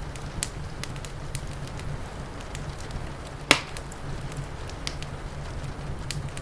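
Wood fire crackling, with scattered sharp pops and one louder pop about three and a half seconds in, over a steady low rumble.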